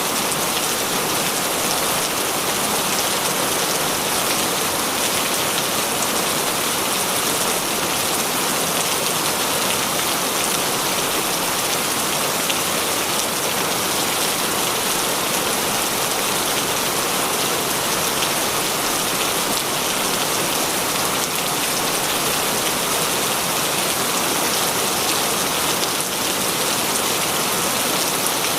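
Heavy rain falling steadily: a dense, even hiss of rain on surfaces, flecked with the patter of individual drops.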